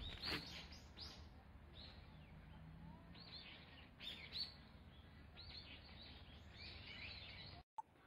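Small woodland birds chirping, many short high calls overlapping throughout; the sound cuts out for a moment near the end.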